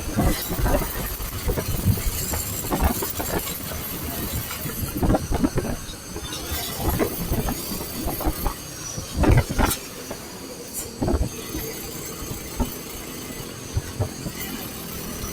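Motorcycle riding along a road: steady engine and road noise with irregular thumps of wind buffeting the microphone.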